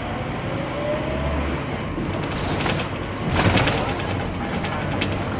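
Scania K230UB bus's five-cylinder diesel engine running, with a faint rising whine in the first second or so and a short loud rushing burst a little past halfway.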